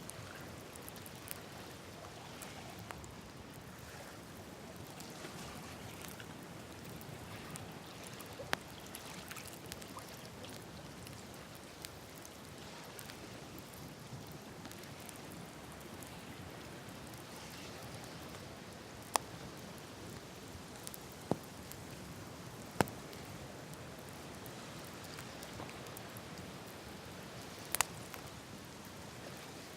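Open wood campfire burning with a steady soft hiss and crackle, broken by a handful of sharp pops, the loudest near the end.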